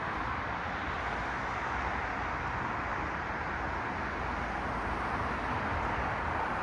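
Steady road traffic: the tyre and engine noise of cars passing blends into a continuous hiss with a low rumble under it, and no single car stands out.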